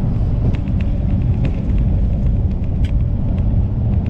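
Kenworth semi truck driving, its diesel engine and road noise a steady low rumble, with a few faint ticks.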